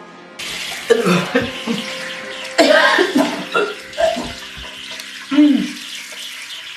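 A tap running into a sink, starting about half a second in, while a person retches and coughs several times over it: she is throwing up.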